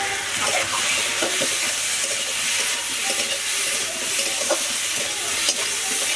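Taro chunks frying in oil in a metal kadai, sizzling steadily, while a long metal spatula stirs them and scrapes and knocks against the pan.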